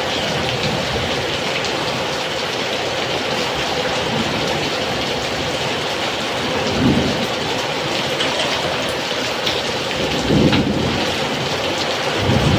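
Heavy rain pouring steadily in strong wind, with low rumbling swells about seven and ten seconds in.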